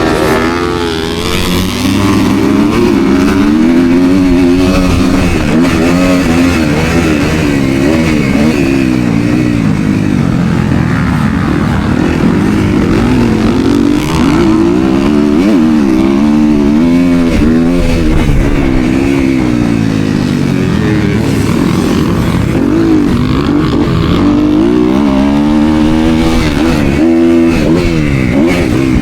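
Motocross dirt bike engine running hard, revving up and falling back again and again as it accelerates and shifts through the gears.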